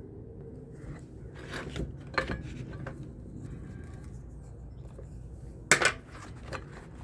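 A few sharp clinks and knocks of small metal fan parts being handled, the loudest near the end, over a steady low hum.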